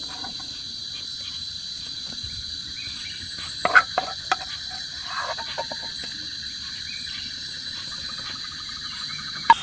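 Forest insects chirring in a steady high drone. A few sharp clicks or knocks come about four seconds in, with softer rustling just after, and one more sharp click near the end.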